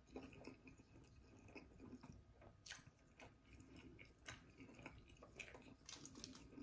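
Faint close-miked chewing of a juice-dipped Italian beef sandwich: wet mouth smacks and small clicks, with a few sharper ones from about two and a half seconds in.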